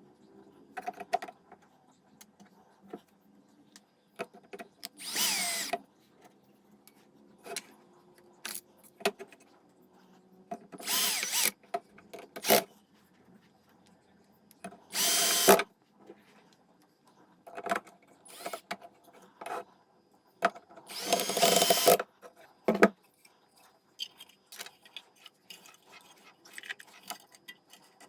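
A power drill or electric screwdriver runs in short bursts of about a second, several times, with clicks and knocks of handling between them.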